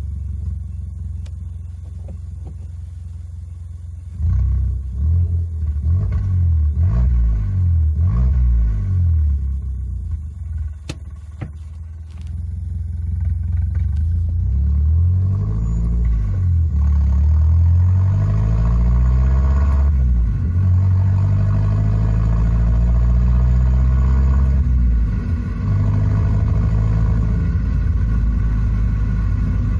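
Engine and exhaust note inside a Mazda Demio (DJ) cabin, with exhaust sound played through the car's own speakers. It hums steadily at first, then about four seconds in it starts rising and falling in pitch again and again as the engine revs up and drops back.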